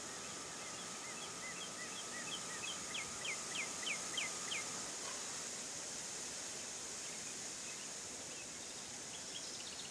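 A songbird singing a run of clear whistled notes, each sliding downward, speeding up and growing louder over about three seconds, then a shorter run near the end. A steady outdoor hiss runs underneath, and a faint steady hum stops about halfway through.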